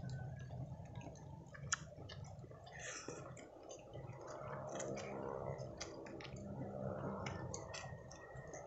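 Close-up eating sounds: chewing and mouth clicks and smacks while chicken gizzards and rice are eaten by hand, heard as scattered short clicks over a low steady background hum.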